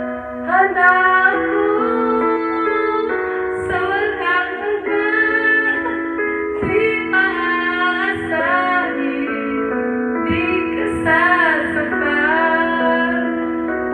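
A woman singing a melody over sustained instrumental accompaniment.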